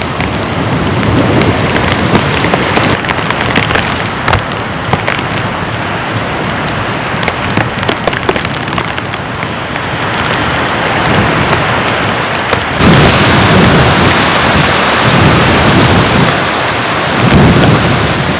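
Heavy rain falling hard, a dense patter of drops hitting close by. About two-thirds of the way in the downpour grows louder, with deep rumbling swells, the loudest near the end.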